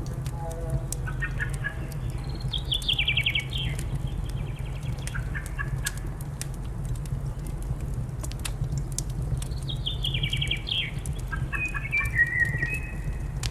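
Wood fire crackling with a steady low rumble, under songbird song in two phrases of quick stepped notes, one in the first half and one in the second.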